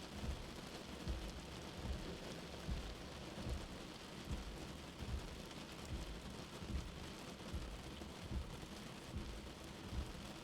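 Steady rain with a soft, low heartbeat thumping beneath it.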